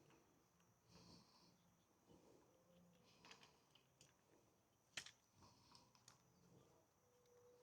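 Near silence with a few faint clicks and one sharper tap about five seconds in.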